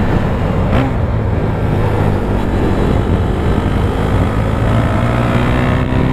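KTM Duke 390's single-cylinder engine running as the bike is ridden, its pitch rising over the last couple of seconds as it accelerates.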